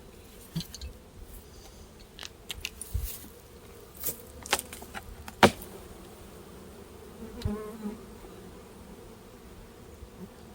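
Honeybees buzzing steadily around an open hive, with a few sharp clicks and knocks from the hive parts being handled; the loudest knock comes about five and a half seconds in, and a single bee buzzes close by a couple of seconds later.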